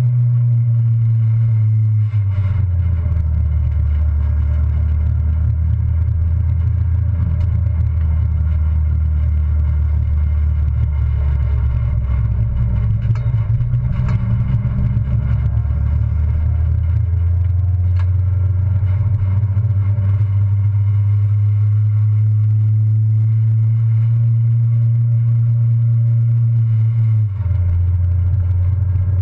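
Citroën Saxo race car's four-cylinder engine running hard, heard from inside the cabin. The revs drop about two seconds in, hold steady, and climb again near the end.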